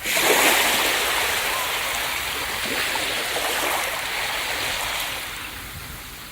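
Ocean waves breaking on a beach: a wave crashes at the start, then a long hiss of surf washing up the sand that slowly fades near the end.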